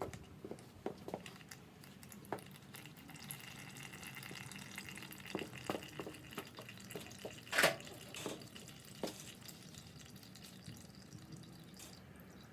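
Warm engine oil draining out of a dirt bike's drain-bolt hole into a drain pan, trickling and dripping as separate drips, with one louder knock about seven and a half seconds in.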